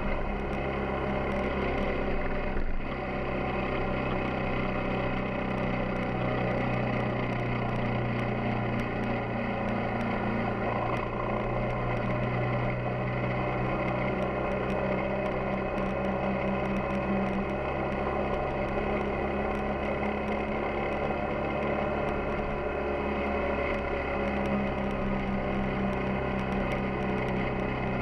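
Yamaha XTZ 250 Ténéré's single-cylinder four-stroke engine running at a steady, nearly unchanging speed, with road and wind noise over it and faint scattered ticks.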